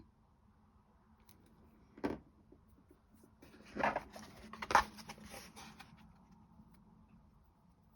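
Small objects being handled on a work surface: a single knock about two seconds in, then a couple of seconds of rustling and clattering with two louder clacks.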